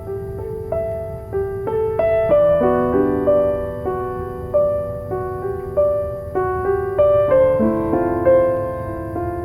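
Soft, slow piano music: single notes and chords in a gentle melody, each note struck and left to fade, over a low steady noise bed.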